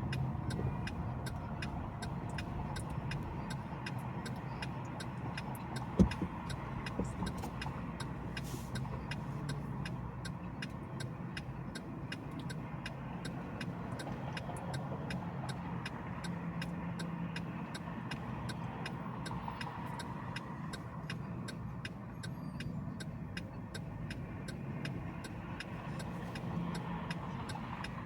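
A car driving, with steady engine and road noise. A faint, fast, regular ticking runs throughout, and there is one sharp thump about six seconds in.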